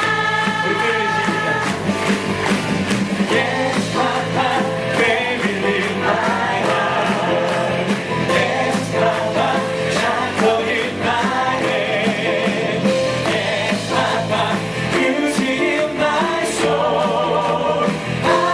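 Live singing with instrumental accompaniment: a sung musical number, the voices held with vibrato over a steady backing.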